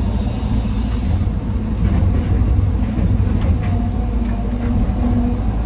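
Heavy diesel machinery running with a deep, steady rumble, with a few faint knocks about two to four seconds in.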